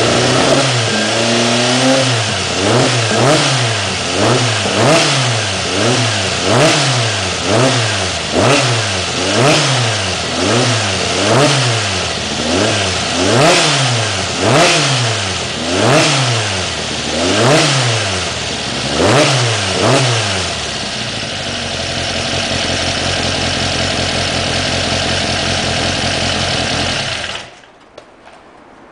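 Air-cooled VW flat-four enlarged to 2276 cc, with an FK-44 cam and a Weber 48 IDA carburettor, revved in quick throttle blips about once a second, the pitch rising and falling each time. It then settles to a steady idle and stops abruptly a second or so before the end.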